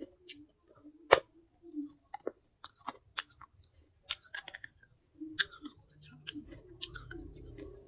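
Close-up chewing of pieces of baked clay pot, a string of sharp, crisp crunches with the loudest about a second in. A low hum builds from about six seconds.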